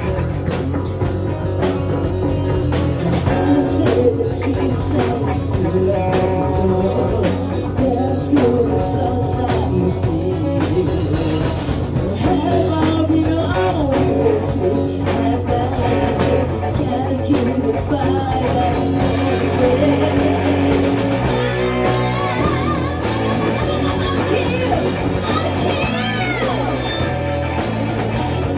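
Rock band playing: electric guitar and drum kit with a singing voice.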